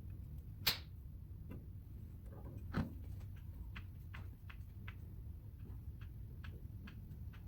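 Hand grease gun being worked on a tractor's grease fittings: two sharp clicks about one and three seconds in, then a run of lighter clicks about three a second.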